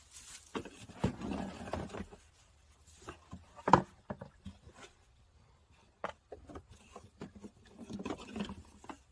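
Irregular clunks, taps and scraping as a fuel tank is worked loose and lifted out, with one sharp knock about four seconds in.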